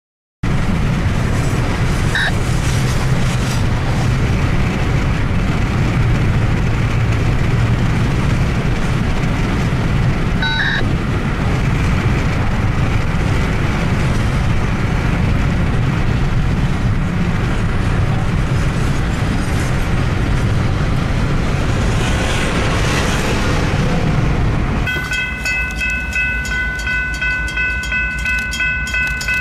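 Steady rumble and road noise from inside a car driving alongside a moving work train of hopper cars. Near the end this switches to a grade-crossing bell ringing with a steady, even beat.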